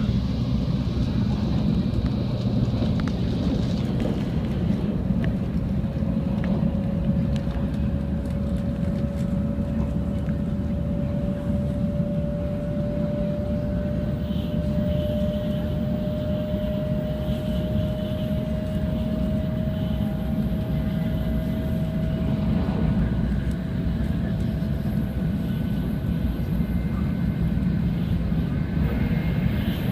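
Shinkansen bullet train running at speed, heard from inside the passenger cabin: a steady low rumble, with a faint whine that rises slowly in pitch over about twenty seconds.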